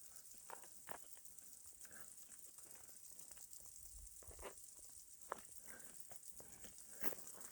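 Scattered sharp snaps and clicks from small flying insects that the hiker takes for cicadas, coming irregularly every second or so over a faint, steady high hiss.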